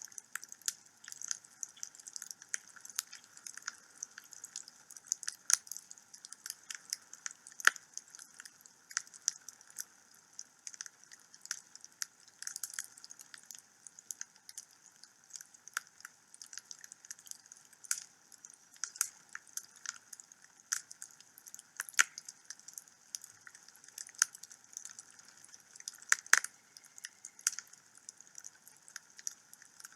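Wood fire burning in a home fireplace, crackling with irregular sharp pops over a faint hiss, with a few louder snaps, one of the loudest near the end.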